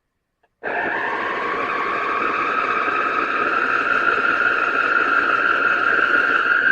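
JOYAMI electric food processor's motor and stainless steel blades running on the slow setting, chopping cooked chicken thighs: a steady whirring whine that starts suddenly a little over half a second in and runs for about six seconds before cutting off.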